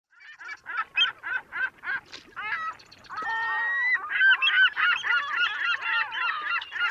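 A flock of birds calling: a run of short repeated calls, about three a second, then from about three seconds in many calls overlapping at once.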